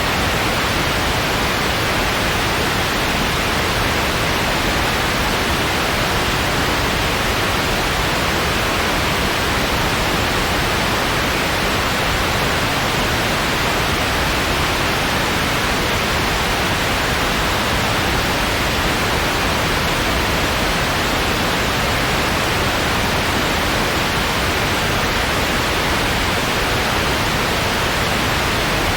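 Steady synthetic white noise, an even hiss with no change or events.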